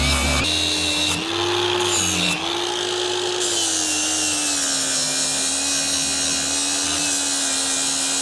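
Angle grinder with a 115 mm flap disc grinding a bevel onto the edge of a steel bracket to prepare it for welding. It runs continuously with a dense hiss, and the motor pitch wavers as the disc is pressed into the metal.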